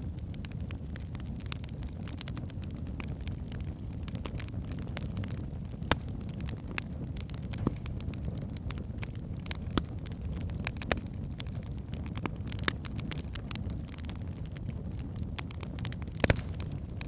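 Wood fire burning in a fireplace: a steady low rumble of flames with irregular crackles and a few louder sharp pops from the burning logs.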